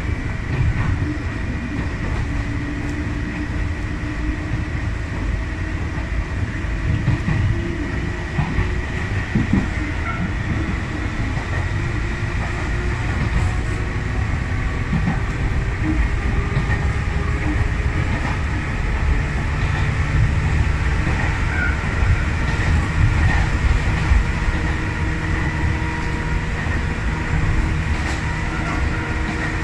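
Sangi Railway electric train running along the line, heard from inside the leading car: a steady rumble of wheels on rails, with a few faint held tones that drift slowly in pitch.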